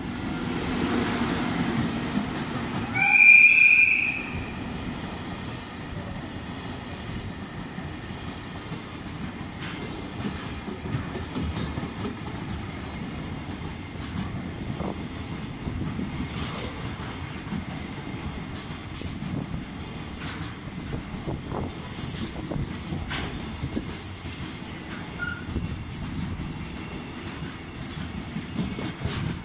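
EF64 electric locomotive passing close by, giving one short loud blast on its horn about three seconds in. A long train of container wagons follows, with a steady wheel rumble and scattered clicks from the rail joints.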